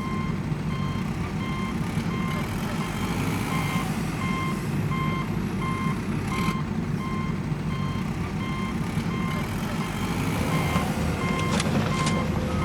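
Vehicle reversing alarm beeping steadily, about two beeps a second, over a continuous low engine rumble, with a few sharp clicks near the end.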